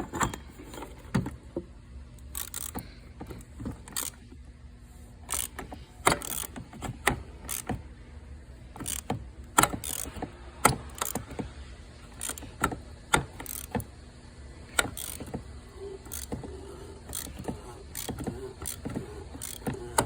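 Ratchet and cap-style oil filter socket working a canister oil filter housing loose: many short metallic clicks and clanks at uneven intervals, over a steady low hum.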